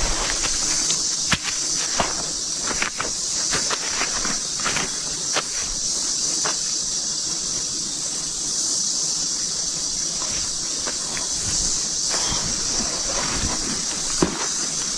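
Steady high insect chorus, like cicadas or crickets, with scattered sharp clicks and snaps.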